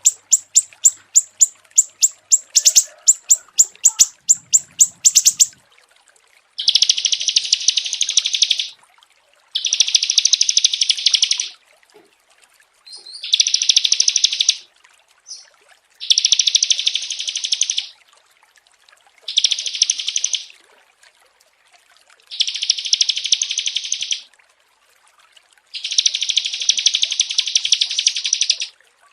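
A small songbird singing. It starts with a fast run of sharp chirps, about four a second, for five seconds. Then it sings seven high, buzzy trilled phrases of about two seconds each, with short pauses between.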